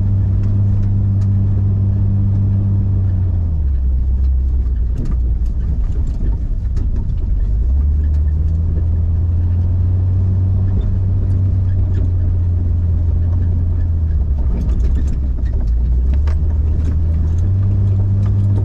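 Jeep engine running under load on a rough dirt trail, heard from inside the cab. Its note drops about three and a half seconds in, climbs again around eight seconds, drops around fourteen and rises again near the end as the revs change, with scattered knocks and rattles over the bumps.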